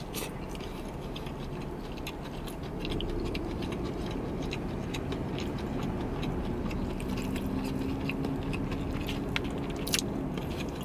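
Close-up chewing of soft chicken parmesan and fettuccine, with many small wet mouth clicks and smacks. A faint low hum sets in about three seconds in and holds until near the end.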